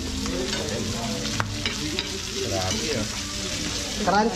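Sisig sizzling and frying in a black skillet on a gas burner while a metal spoon stirs and scrapes it, with one sharp clink of spoon on pan about a second and a half in. The meat is turning crunchy.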